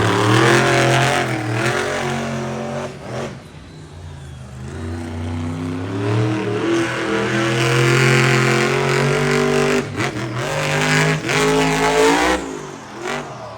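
Monster truck engine revving hard, its pitch climbing and falling repeatedly as the throttle is opened and lifted several times.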